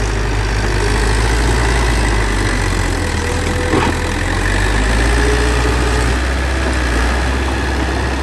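Bulldozer's diesel engine running steadily with a deep drone, and a single short knock about four seconds in.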